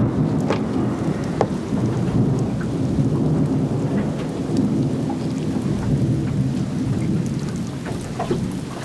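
Film sound effect of heavy rain falling under a continuous low rumble of thunder, with scattered drips and splashes.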